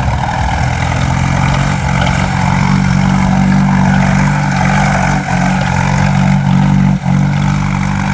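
Tractor engine running loud and steady, with a brief dip about seven seconds in.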